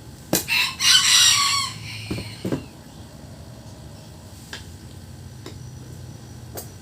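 A rooster crowing once, a loud call of about a second and a half, followed by a couple of short knocks.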